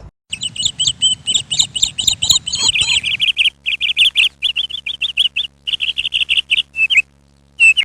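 A small bird chirping rapidly and repeatedly, several short high notes a second, breaking off briefly near the end before starting again.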